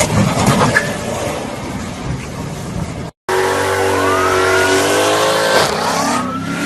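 Car engine accelerating hard: its pitch climbs, levels, then climbs again, as it would through a gear change. This follows a brief cut from a rough stretch of road and wind noise.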